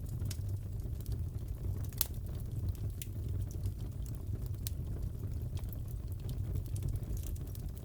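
Wood fire crackling in a fireplace: a steady low rumble with scattered sharp pops and snaps, the loudest pop about two seconds in.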